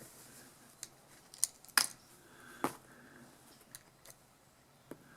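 Scattered sharp clicks and taps of a hand tool and small plastic and metal parts while the recoil starter on a small two-stroke engine is unscrewed, about six in all.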